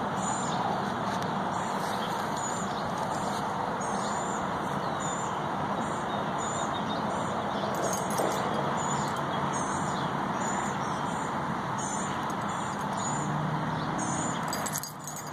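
A small bird chirping short, high notes about once a second over a steady background hiss.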